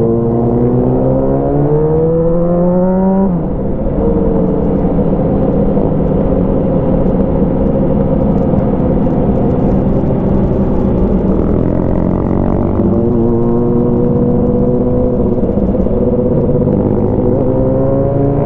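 Motorcycle engine running through an aftermarket Avionic exhaust under load: the revs climb for about three seconds, drop sharply at a gear change, then hold steady while cruising and climb again twice later.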